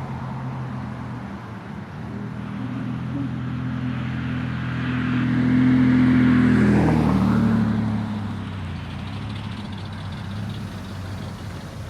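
A car's engine running as it drives past, growing louder to a peak about six seconds in, then dropping in pitch and fading as it moves away.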